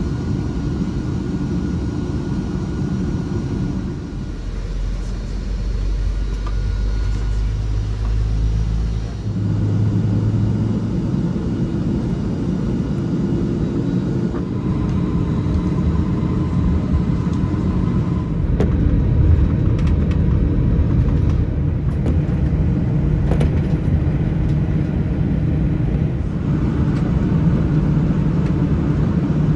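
Airbus A319 airliner rumbling as heard from inside the cabin while it taxis and rolls for takeoff: a steady low rumble of jet engines and wheels that grows louder about nine seconds in.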